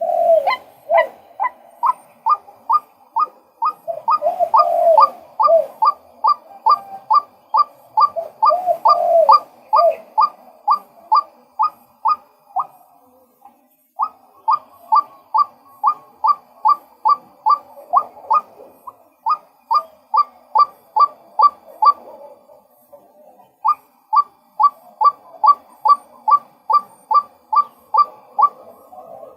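Male white-breasted waterhen calling: a long, steady run of short, sharply rising notes, about two to three a second. A few lower notes are mixed in during the first ten seconds. The series stops briefly twice, then goes on.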